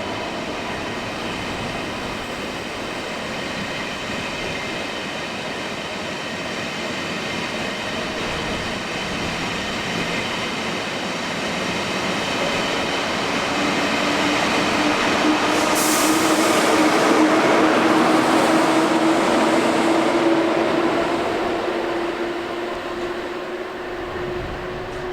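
An electric train running on the rails, getting louder about halfway through with a slowly rising hum, and a brief high squeal about sixteen seconds in, then easing off slightly.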